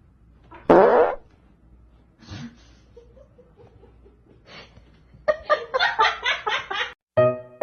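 A short loud cry about a second in, then a person laughing in quick repeated bursts near the end.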